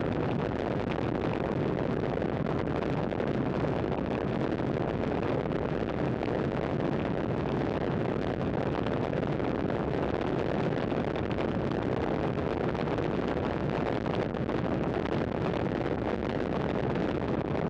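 Steady wind rushing over the microphone while riding a road bike at speed, an even noise with no breaks.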